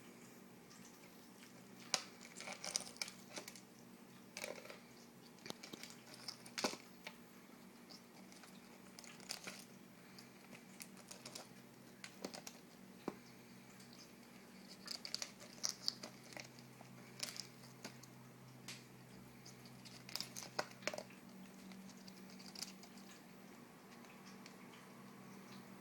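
Eclectus parrot's beak pecking at and cracking the shell of a raw egg: irregular sharp clicks and crackles, some in quick clusters, over a faint steady hum.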